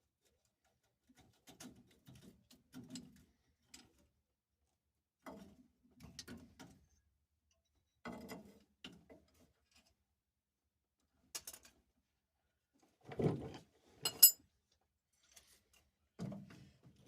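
Scattered clunks, scrapes and clicks of hand tools and metal parts being handled while working on a pickup's rear brake lines, with short quiet gaps between them. The loudest is a sharp metallic click with a brief ring about fourteen seconds in.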